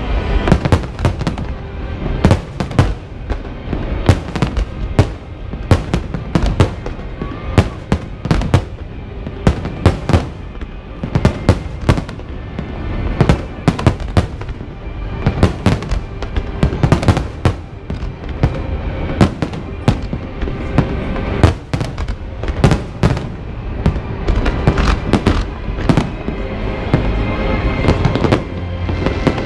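Fireworks display in a dense barrage: shells bursting in rapid sharp bangs and crackles, several a second, with music playing underneath. The bangs thin out near the end.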